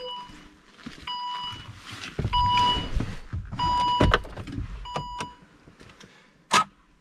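Volvo V60's rear parking sensor beeping with the car in reverse: a high single-pitched beep about once a second, five times, then it stops. A sharp click near the end.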